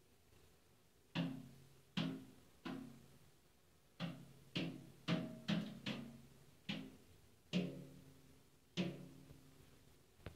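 Irregular metallic clangs, about eleven in ten seconds, each ringing briefly with a low hum: a bird knocking on a metal object.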